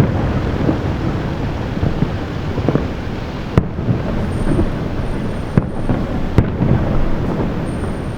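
Aerial fireworks shells bursting at a distance: a continuous rumble of booms and crackles, with three sharp, loud bangs in the second half.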